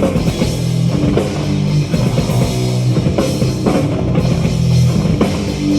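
Live heavy metal band playing an instrumental passage: distorted electric guitars and bass holding low chords over a full drum kit.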